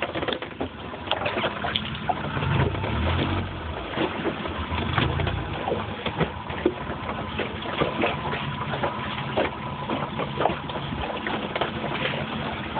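A glass-bottom boat underway: a steady motor hum under water sloshing and gurgling against the hull, with many small clicks and knocks. Two low swells of rumble come about 2.5 and 5 seconds in.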